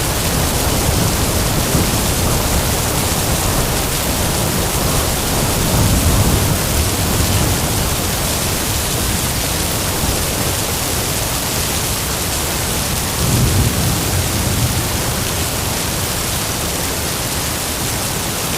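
Heavy rain and wind in a loud, steady hiss, with two short low rumbles of thunder, about six seconds in and again about thirteen seconds in.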